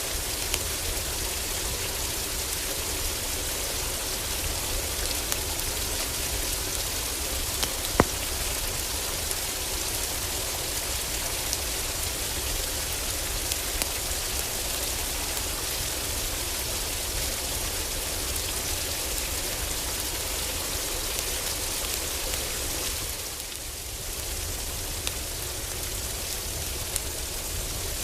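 Heavy rain drumming steadily on a roof, a dense even hiss, with occasional sharp crackles from a wood fire in a fireplace, the loudest about eight seconds in. The rain eases slightly for a moment about two-thirds of the way through.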